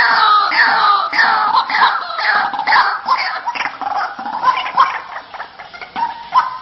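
White-breasted waterhen (ruak-ruak) calling: a repeated series of harsh notes, each falling in pitch, about one every two-thirds of a second, growing quieter and more broken over the last couple of seconds. It is a lure call used to draw waterhens in.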